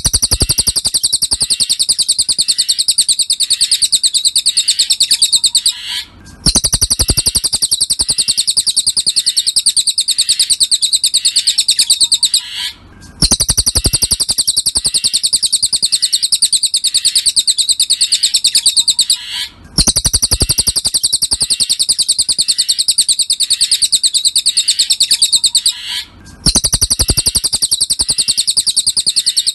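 Cililin songbird singing a fast, high, buzzy trill in long phrases of about six seconds each, broken by brief pauses about four times. It is a repeated masteran song recording.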